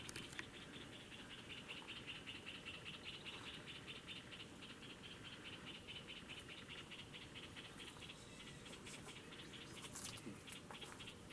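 Faint natural ambience: a continuous chorus of rapid, high-pitched pulsing trills from calling animals, with a few sharp clicks about ten seconds in.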